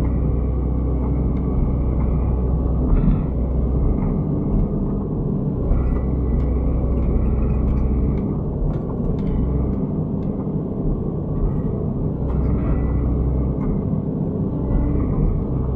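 Excavator's diesel engine running under load with its hydraulics working, the low drone swelling and easing every few seconds as the machine works, with a few short knocks.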